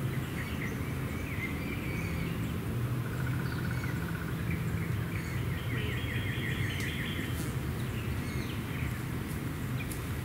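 Songbirds singing in the trees, several short trills of rapidly repeated notes, over a steady low hum.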